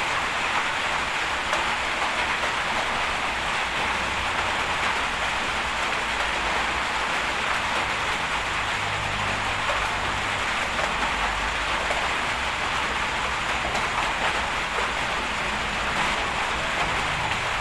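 Bulldozer working: a low diesel engine hum, swelling a little about eight seconds in, under a steady hiss of noise.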